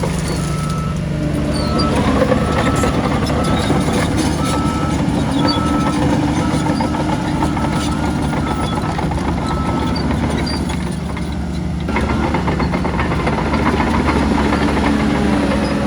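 Heavy diesel earth-moving machinery, bulldozer and dump trucks, running steadily under load. A reversing alarm beeps about once a second for the first ten seconds or so.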